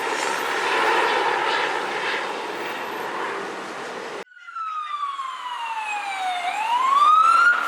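Vehicle engine and road noise, then, after an abrupt cut, an emergency vehicle's wail siren: one slow fall in pitch and a rise back up, loudest near the end.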